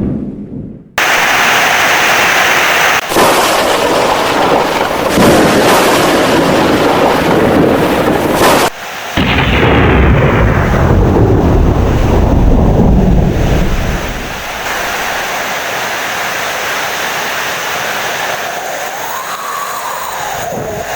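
Heavy rain with rolling thunder: loud, deep rumbles that start and stop abruptly a few times. After about 14 s the thunder dies away and a quieter, steady downpour remains.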